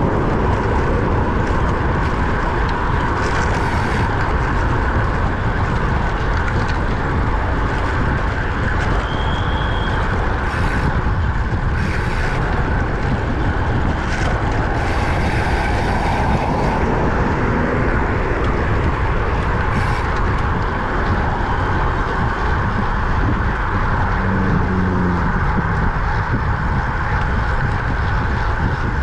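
Steady rush of wind on the microphone and road noise while riding a road bike along a highway, with a few short gusts or passing sounds between about ten and twenty seconds in.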